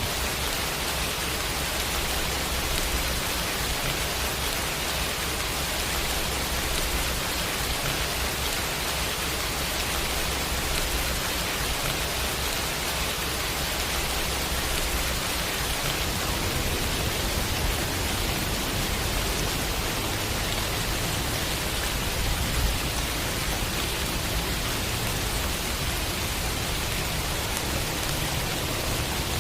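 Steady, continuous rainfall, an even hiss of many drops, with a low rumble underneath.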